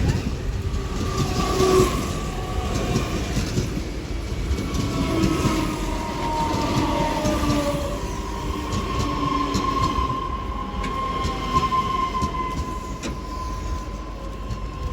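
Electric commuter train running through the station: a continuous low rumble with high squealing tones that drift in pitch, and a few faint clicks in the second half.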